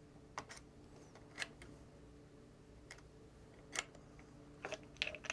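Light, sharp metallic clicks and taps from handling bicycle parts, about a dozen at irregular intervals and bunched near the end, over a faint steady hum.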